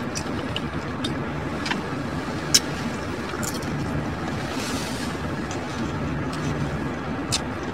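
Eating sounds: chewing and sharp mouth clicks from a chicken taco, the loudest click about two and a half seconds in, over a steady low hum.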